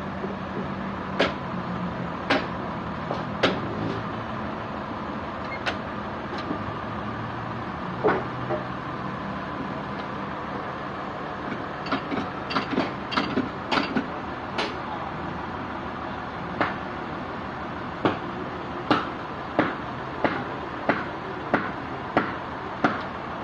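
Steady mechanical hum of sawmill machinery with sharp knocks and clanks: scattered at first, a quick cluster about halfway through, then a regular run of about one and a half knocks a second near the end.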